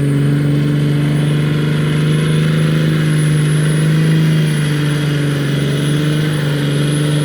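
Straight-piped 5.9 Cummins diesel truck engine running hard at a steady high pitch under way.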